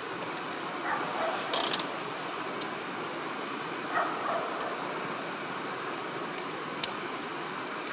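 Wood fire burning in a firewood grill: a steady hiss with scattered crackles, a quick cluster of crackles near the start and one sharp pop near the end.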